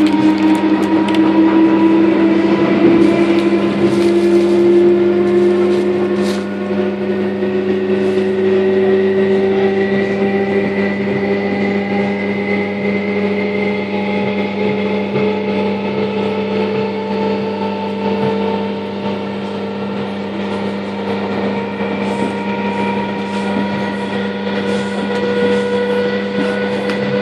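Electric Thameslink train heard from inside the carriage: the traction motors whine and slowly rise in pitch as the train accelerates, over a steady hum. Scattered clicks from the wheels and track come through near the start and again near the end.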